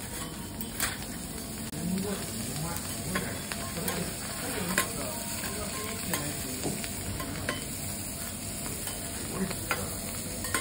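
Green vegetables frying in butter on a steel teppanyaki griddle, sizzling steadily while two metal spatulas stir them, with scattered sharp clicks and scrapes of the spatulas against the plate.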